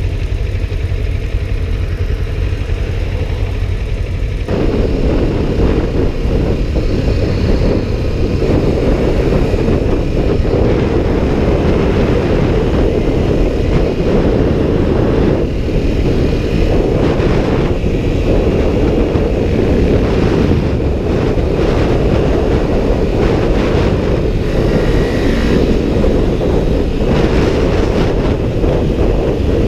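Motorcycle underway: a steady rumble of engine and wind noise, growing louder about four and a half seconds in and then holding steady.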